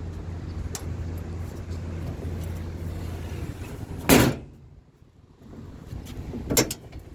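A low steady hum, then a loud bang about four seconds in as a metal compartment door or access panel on the truck's service body is shut, and a lighter clunk near the end.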